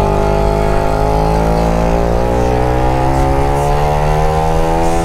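Suzuki GSX-R150's single-cylinder four-stroke engine pulling under steady throttle, its pitch climbing slowly as it revs up through one long gear, over low wind noise.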